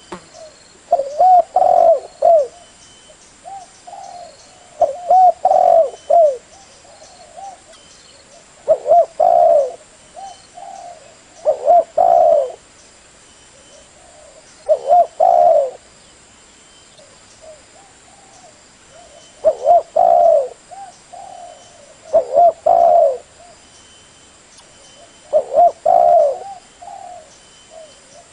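Spotted dove cooing: a low, short phrase of several coo notes, repeated about every three to four seconds, about eight times.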